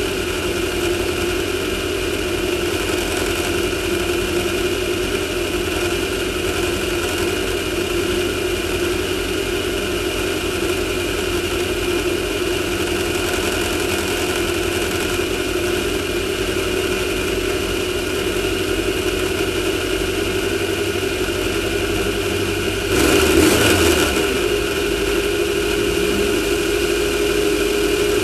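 Class 1600 off-road race car's engine running steadily at an even pitch. About 23 seconds in there is a louder rush lasting about a second.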